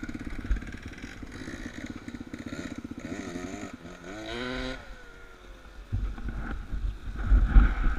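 Motorcycle engine running at low revs with a rhythmic pulse, revved up and down twice around the middle. It then drops away, leaving low rumbling and buffeting from about six seconds in.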